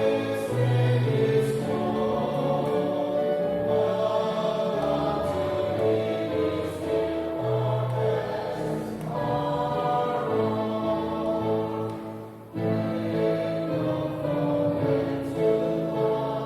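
A small group of voices singing a hymn in held notes, with a short break between phrases about twelve seconds in.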